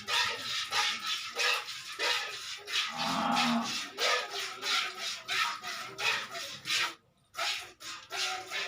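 Cow being milked by hand: short hissing squirts of milk into a pail, about two or three a second, stopping briefly near the end. A short low moo from the cow about three seconds in.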